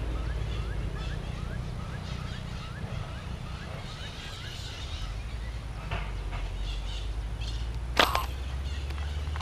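A bird calling a rapid run of short rising chirps, about two a second, over low wind rumble on the microphone. Near the end comes a single sharp snap, the loudest sound, as a slingshot is shot toward the water.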